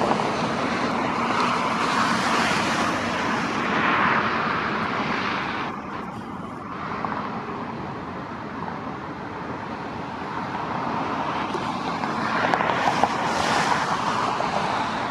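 Outdoor vehicle noise: a steady rush that swells and fades as vehicles pass, quietest about halfway through and building again near the end.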